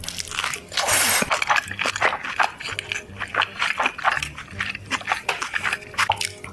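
Close-miked eating of a slice of loaded pizza: a loud crunching bite about a second in, then a run of crackly, wet chewing sounds.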